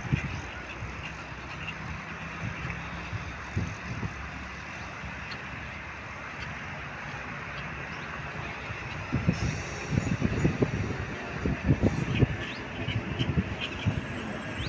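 Steady outdoor noise, with irregular low gusts of wind buffeting the microphone from about nine seconds in.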